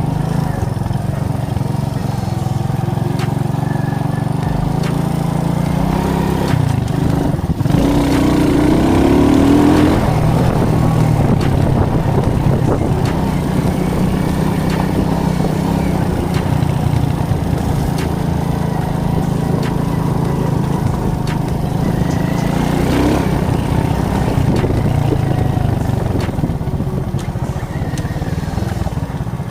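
Alpha moped's small four-stroke engine running under way, with a steady hum, its pitch rising as it revs up about eight seconds in.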